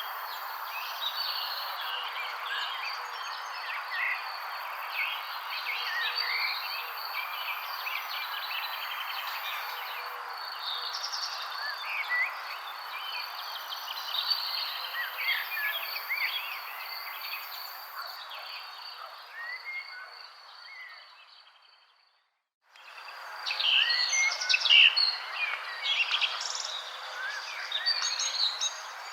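Many songbirds chirping and trilling at once over a steady hiss and a thin steady high tone. About three-quarters of the way through, the sound fades to silence for a moment and then fades back in.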